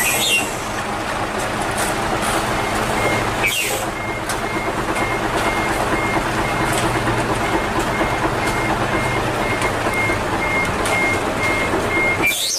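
A truck's reversing alarm beeping steadily at one high pitch over a heavy diesel engine running, with a few knocks and clatters of site work.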